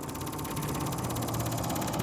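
Electric inline fuel pump rattling with a fast, even ticking over a steady low hum as it primes, pulling fuel up through a dry line from a bottle used as a temporary tank.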